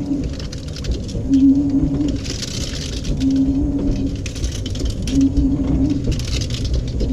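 LG 18 kg washing machine agitating an overloaded wash: the drum motor hums in short turns about every two seconds, and a swishing noise of wet laundry moving comes between the turns, over a steady low rumble.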